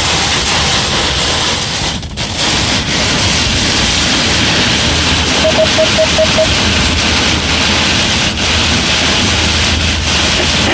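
Heavy thunderstorm rain and wind, a loud steady downpour. About halfway through comes a quick run of five short beeps at one pitch.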